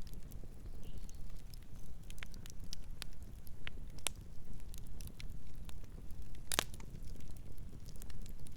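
Campfire burning with a steady low rumble and scattered sharp crackles and pops of burning wood, the loudest pop about six and a half seconds in.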